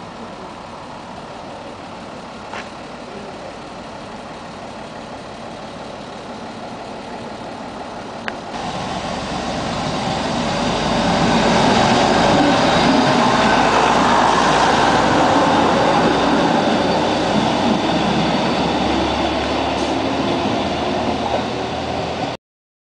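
Trenitalia ALn 668 diesel railcar pulling in past the platform, engine and wheels on the rails growing much louder from about nine seconds in, loudest as it passes close by and staying loud after.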